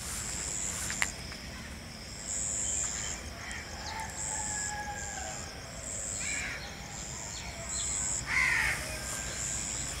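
Birds calling in rural open air, the loudest a harsh call about eight seconds in, over a high buzz that comes and goes in short spells.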